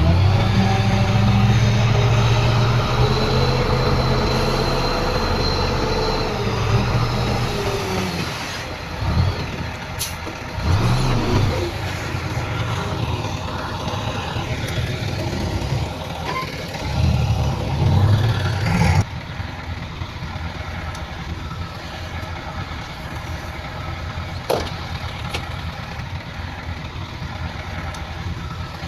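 Heavy diesel engines of earthmoving machinery, a bulldozer and dump trucks, running under load. The engine is loudest and steady for the first several seconds, its revs rise and fall after that, and about two-thirds of the way through the sound drops abruptly to a quieter, steady engine run with a couple of sharp clicks.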